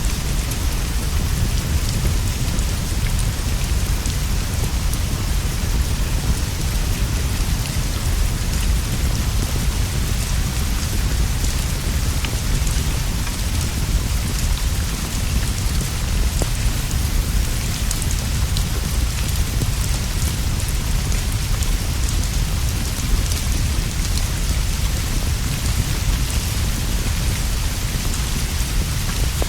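Steady rainfall with a constant deep low rumble underneath and scattered light ticks of drops.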